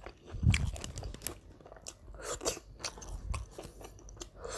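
Close-up mouth sounds of someone chewing crispy deep-fried catfish, with a run of sharp crunches and a heavier bite about half a second in.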